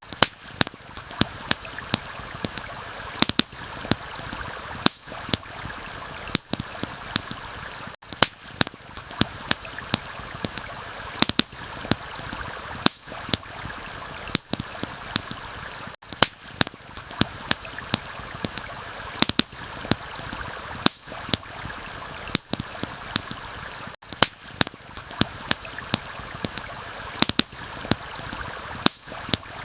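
A flowing stream gives a steady rush of water, with a campfire crackling over it: frequent sharp pops and snaps at irregular intervals.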